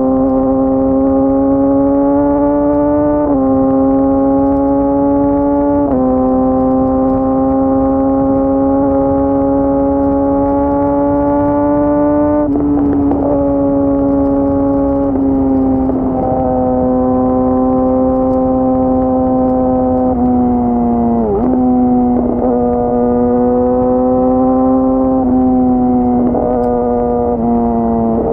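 Yamaha YZF-R6 inline-four engine running at high revs, the pitch climbing slowly and dropping in sudden steps several times as gears change, with a brief deeper dip a little past two-thirds of the way through.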